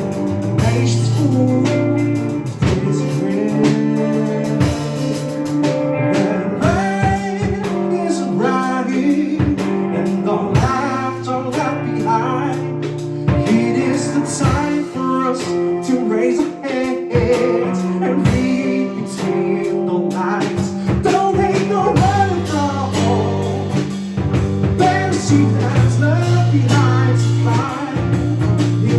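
Live alternative pop/rock band performing: a singer over guitar and drums, with sustained low notes underneath.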